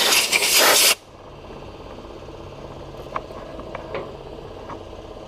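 Sandblast gun firing glass-bead media in a loud hissing burst that cuts off sharply about a second in, followed by a steady low machine hum with a few faint clicks.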